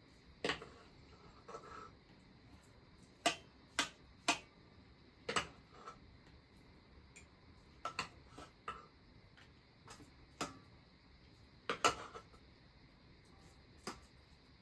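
Metal utensils clinking against dishes in irregular sharp taps, about a dozen spread out, some in quick pairs and threes: food being served out or eaten.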